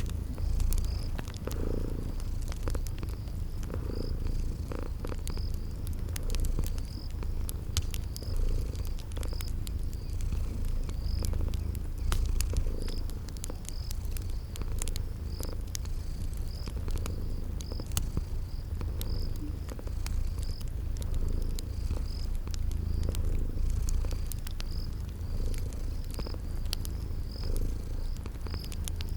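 Cat purring steadily, swelling with each slow breath, with a cricket chirping about once a second and a wood fire crackling in scattered sharp pops.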